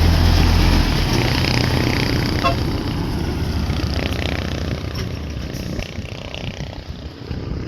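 Vehicle engine running, loud at first and then fading away over the next several seconds as it draws off.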